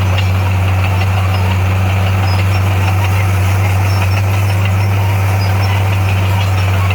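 Heavy construction machine's diesel engine running steadily, a deep, even hum that holds the same pitch throughout.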